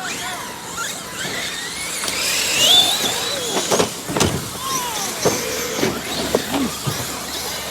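Large-scale electric RC monster trucks racing, their motors whining and rising in pitch as they accelerate. There is a cluster of sharp knocks about four seconds in, with a few more later, from trucks landing or colliding.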